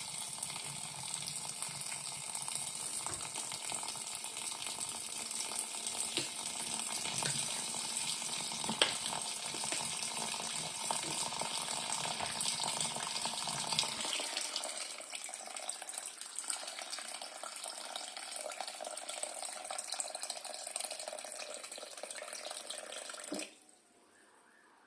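Tap running into a sink, with a few knocks as things are handled in it; the water shuts off suddenly near the end.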